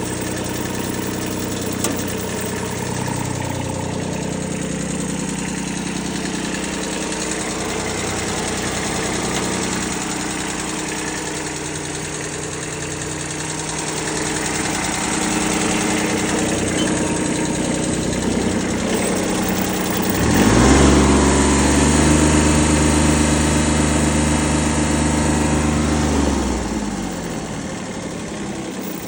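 Kubota B6001 tractor's three-cylinder diesel engine idling. About two-thirds of the way through it is revved up quickly, held at higher speed for several seconds, then settles back toward idle near the end.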